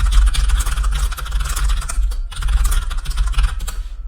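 Fast, heavy typing on a computer keyboard, a dense run of key clicks with a low thud under each, pausing briefly about two seconds in and stopping near the end.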